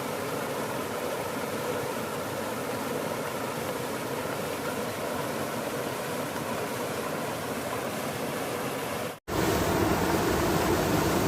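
Steady rushing water noise, heavy rain or river flow. It cuts out for an instant just after nine seconds and comes back louder.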